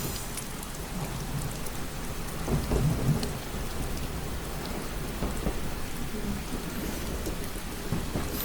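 Steady rain ambience, rain pattering against a train window, with a low rumble that swells briefly about three seconds in.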